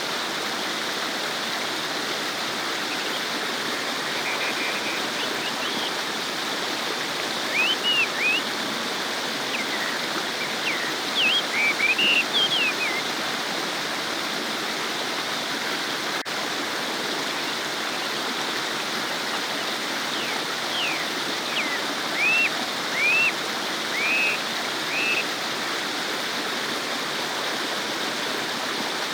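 Babbling stream, water running steadily over stones. Clusters of short, high chirps sound over it twice, the loudest moments, in the first half and again near the end.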